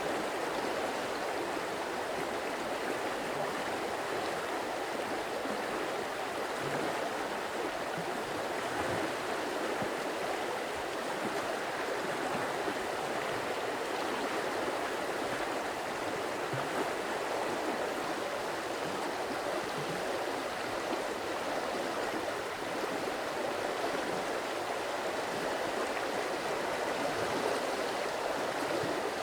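Stream water running and gurgling in a steady, unbroken rush.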